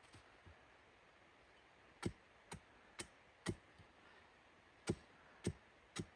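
Sharp knocks, about two a second, in two runs of four, over a faint steady hiss.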